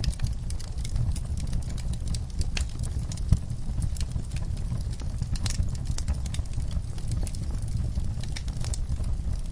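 Wood fire in a fireplace crackling, with irregular small pops and one louder pop about three seconds in, over a steady low rumble.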